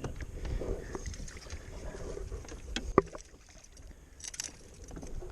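Water and wind noise around a kayak on the water, with a few small knocks and clicks and one sharp click about three seconds in.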